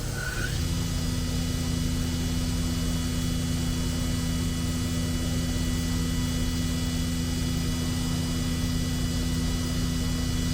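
OKK HM500S CNC horizontal mill running, a steady machine hum with a higher whine over it. It comes on about half a second in, just after a short high beep.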